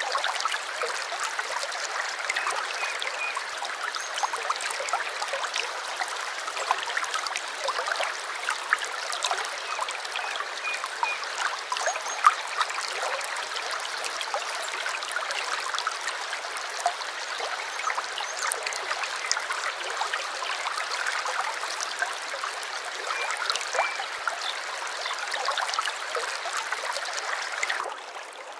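Stream water babbling and trickling steadily, with many small splashes and a few faint, brief bird chirps. The sound fades down near the end.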